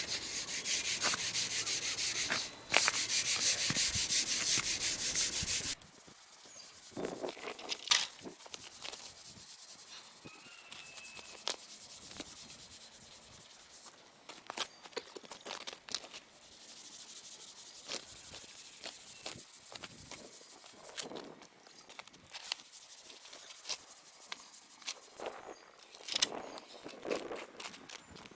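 Green abrasive scrub pad rubbed rapidly back and forth over painted sawmill track rails, roughing up the paint. The dense scrubbing stops about six seconds in, leaving quieter scattered clicks and taps.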